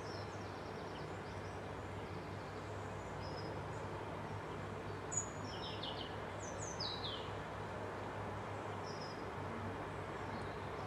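Small birds chirping: short, high calls that drop in pitch, coming in a cluster about halfway through, over a steady background rush with a low hum.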